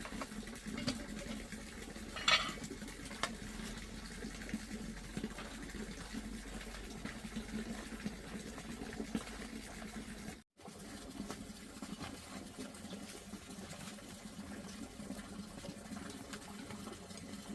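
Steady sound of water running or splashing, with a single sharp clink about two seconds in.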